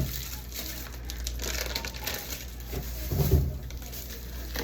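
Plastic food packaging crinkling and rustling as groceries are handled while cleaning out a fridge, with a dull thud about three seconds in as something is set down.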